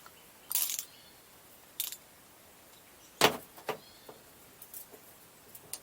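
Metal hand tools (socket and ratchet) being handled: a few short clinks and rattles, with one sharp knock about three seconds in as the loudest, then light ticks near the end.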